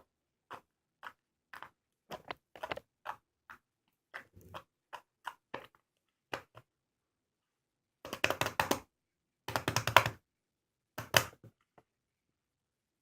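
Slime being squeezed and poked by hand, making short sticky clicks and pops, then three louder crackling squishes in the second half.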